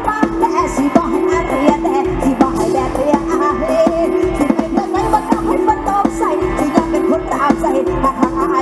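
Mor lam sing band playing an instrumental passage: a steady drone under a quick, ornamented melody, with drums keeping a fast, even beat.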